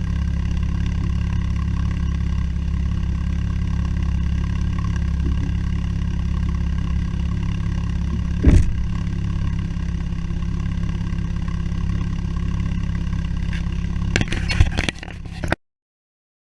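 Porsche Cayman S flat-six idling steadily through an AWE Tuning stainless cat-back exhaust. A single brief thump comes about halfway through, and a few clicks and clatter near the end before the sound cuts off abruptly.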